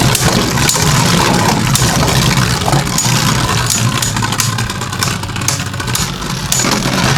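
Two Beyblade tops, Kerbeus K4 and Blizzard-X Gaianon, whirring as they spin around a plastic stadium, with many sharp clacks as Gaianon attacks and they collide.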